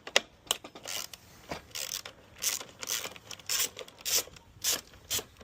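Hand ratchet with a 10mm socket clicking in short, irregular strokes with some metal scraping, backing out the bolts that hold the radiator fans.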